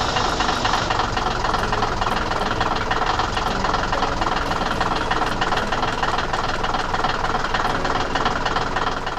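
Loud steady mechanical rattling of a running machine engine, starting abruptly and running unchanged until it stops at the very end.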